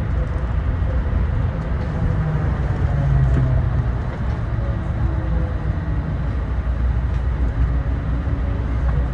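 Denver airport's automated people-mover train running slowly through its tunnel, heard from inside the car: a steady low rumble with a faint motor hum that swells briefly about two seconds in. It is held to about 10 miles an hour by a speed restriction.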